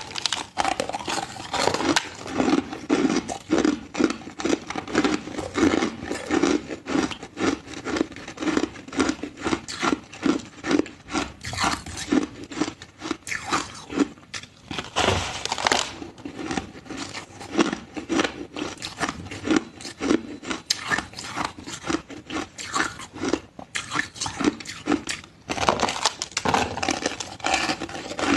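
Ice being chewed close to the microphone: a steady run of crisp crunches, about two a second, with a louder crunch about halfway through.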